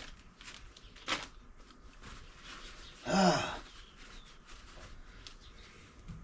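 Small clicks and light rustling of old rubber brake cups and small wheel-cylinder parts being handled and checked over, with a sharper click about a second in. A short vocal sound from the man about three seconds in.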